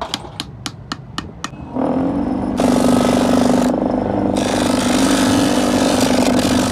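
Light hammer taps on steel, about four a second, stop after a second and a half. A power grinder's motor then starts with a steady hum, and from about two and a half seconds in the hiss of it grinding steel is added, breaking off briefly once.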